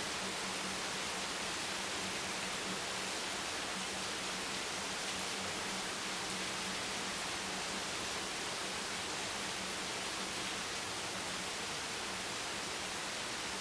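Steady, even rain hiss with no distinct drops standing out, over a faint low hum.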